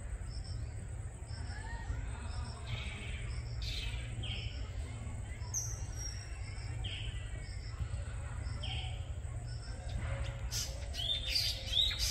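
Small birds chirping: one repeats a short high call about twice a second, with scattered other chirps and a louder burst of twittering near the end, over a steady low rumble.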